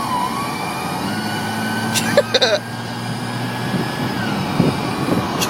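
Whistling interference tone from a truck's radio, caused by an iTrip FM transmitter. About a second in, as the gas is tapped, the tone jumps up in pitch, holds for about three seconds, then slides back down.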